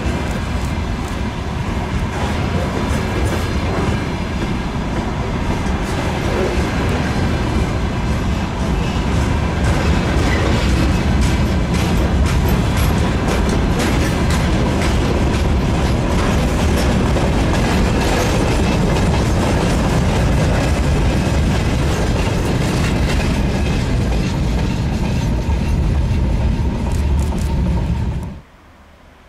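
Train hauled by an ER20CF diesel locomotive rolling past at close range: a steady heavy rumble with wheels clicking rapidly over the rail joints. The sound stops abruptly about a second before the end.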